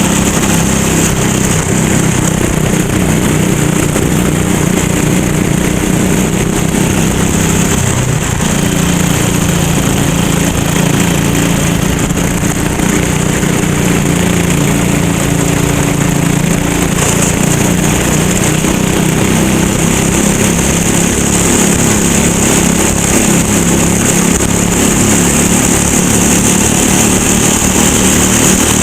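Rental race kart's engine running hard at racing speed, its note holding steady and dipping briefly about eight seconds in.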